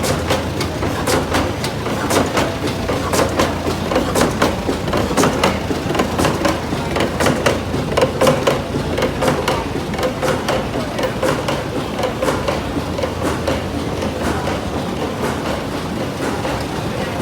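Old stationary engine running, with a steady series of sharp beats, a few a second, over a low hum.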